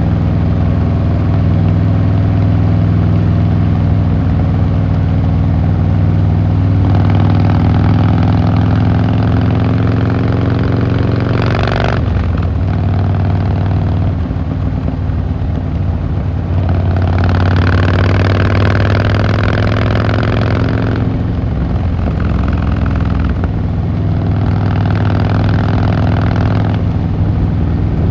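Harley-Davidson Fat Boy Lo V-twin motorcycle running on the road. Its low exhaust note stays steady, with three stretches where the pitch rises as the throttle opens. The first of these cuts off sharply about twelve seconds in.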